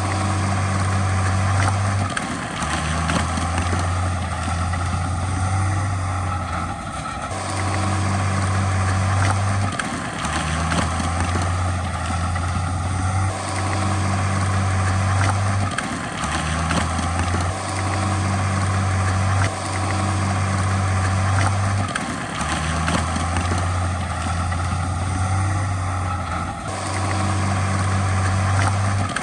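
Heavy diesel engine of a crawler bulldozer running hard, its low note stepping up and down every few seconds as the load changes, with a dense mechanical clatter and scattered sharp clanks.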